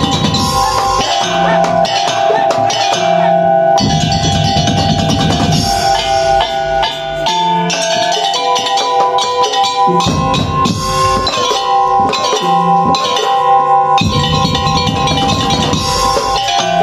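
Madurese tong-tong (ul-daul) music: a traditional percussion ensemble of drums and struck wooden and metal instruments plays under a steady sustained melody, with spells of heavy drumming that come and go.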